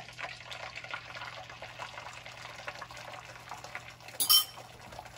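Beaten eggs sizzling in a frying pan of hot ghee, a steady fine crackle, with one brief clink about four seconds in.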